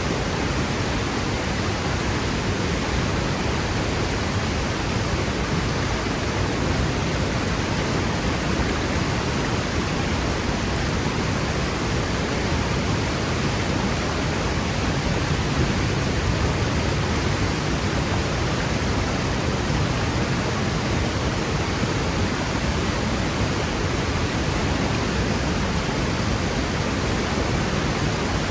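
Waterfall pouring into its plunge pool: a steady, even rush of falling water with a low rumble beneath it.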